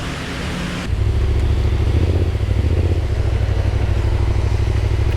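Hiss of rain and wind for about the first second, then a Yamaha Ténéré 700's parallel-twin engine running steadily with a fast low throb.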